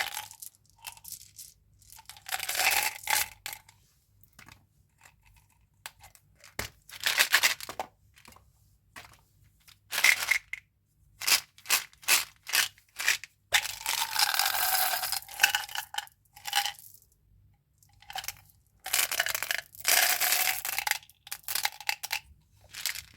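Candy wrappers being torn open and crinkled by hand in repeated bursts, each lasting up to a couple of seconds, with short pauses and a few sharp clicks between them.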